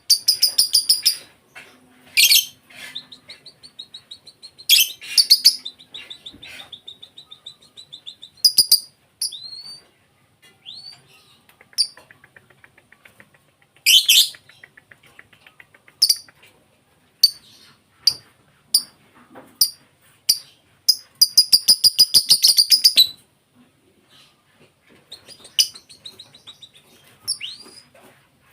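Lovebird calling with sharp, high-pitched chirps and squeaks in short irregular bursts, breaking into a long run of rapid chattering about three quarters of the way through.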